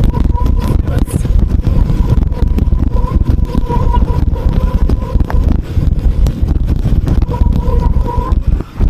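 Vehicle brakes squealing in a steady, wavering tone that fades in and out, over heavy rumble and wind buffeting on the microphone. The squeal stops near the end.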